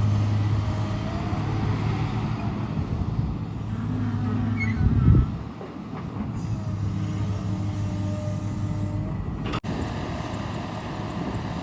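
Heavy diesel engine of construction machinery running with a steady low hum, swelling loudly for a moment about five seconds in.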